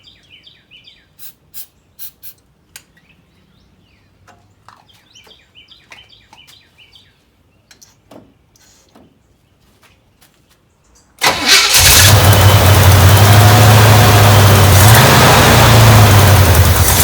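A 1968 El Camino's 350 small-block Chevy V8 comes in abruptly about eleven seconds in and runs loudly and steadily, with a slight dip in pitch near the end. Before it there are only faint bird chirps and a few light clicks.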